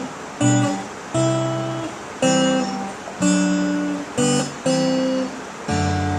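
Acoustic guitar strumming chords, one ringing strum about every second with the chords changing, as in a song intro with no singing yet.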